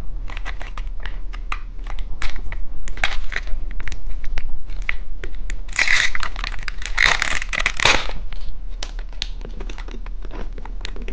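Plastic wrapper of a tongue-shaped gummy candy crinkling and tearing as it is opened, in many short crackles with a louder stretch of rustling about two-thirds of the way through.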